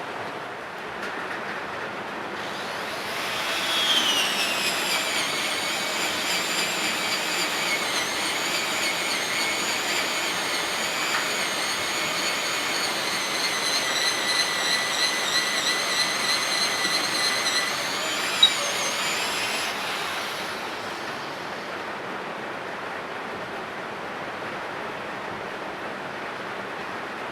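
An electric power tool's motor whines for about seventeen seconds. Its pitch drops soon after it starts, as if it is coming under load, then holds steady before it winds down. A single sharp tick comes near the end, over a steady hiss.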